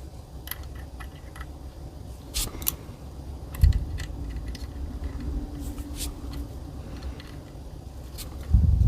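Light metallic clicks and scraping of a tool and small metal parts as the brass power valve is threaded back into an Umarex Zelos air rifle, with two dull handling thumps, about three and a half seconds in and near the end.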